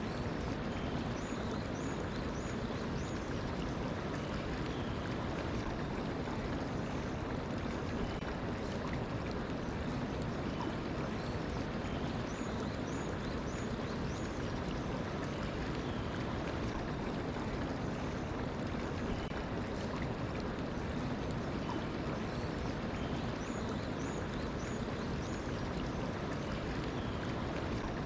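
Mountain stream flowing steadily, with a bird's short high chirps coming in small groups three times: near the start, in the middle and near the end.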